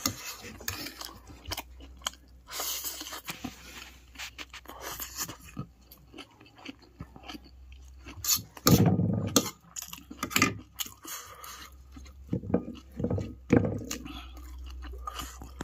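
Close-miked mukbang eating of fried chow noodles with pork: irregular chewing and biting with crunchy bites, and one louder noise lasting about a second a little past halfway.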